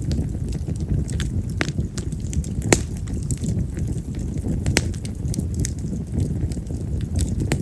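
Split wild cherry (yamazakura) firewood burning in an open fire: a steady low flame rumble with frequent sharp crackles and pops at irregular intervals, the loudest pop nearly three seconds in.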